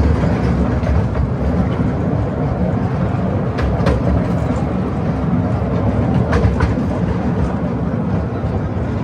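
Toy train running along its track: a steady rumble, with two pairs of sharp clicks a few seconds apart as the wheels pass over rail joints.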